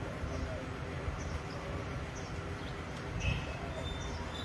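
Spotted dove giving faint, low, curved coos, with faint high chirps of small birds, over a steady low rumble.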